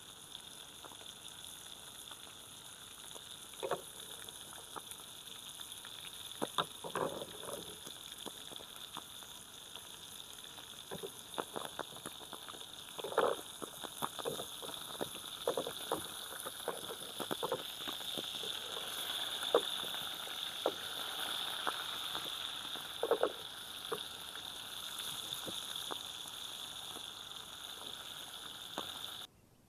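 Food frying in a hot pan over a fire, a steady sizzle with scattered pops and crackles, cutting off suddenly near the end.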